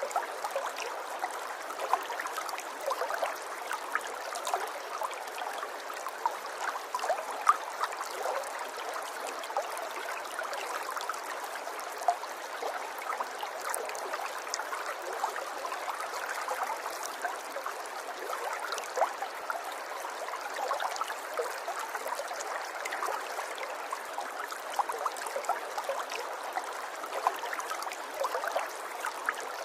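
River water flowing steadily over stones, with a constant babble and many small splashes and gurgles.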